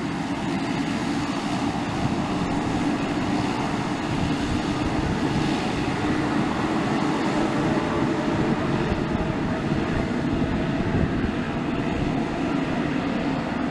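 Aircraft engines running steadily during a takeoff, a continuous low noise that neither rises nor fades much.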